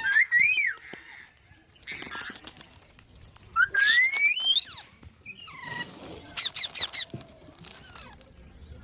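Pet green parrot calling: a short bending whistle at the start, a long rising whistle about four seconds in, then a quick run of four or five sharp squawks about six and a half seconds in.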